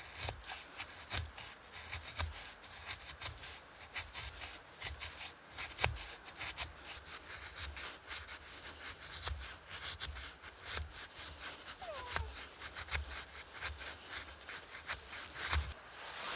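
Close rustling and rubbing with many small clicks and soft knocks.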